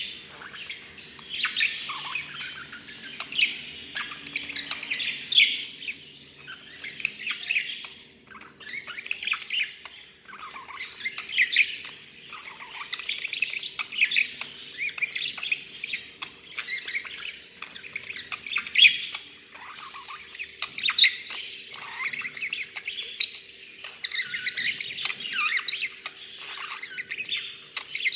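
A budgerigar talking away: a continuous, rapid chatter of warbles, chirps and squawks, broken by short pauses.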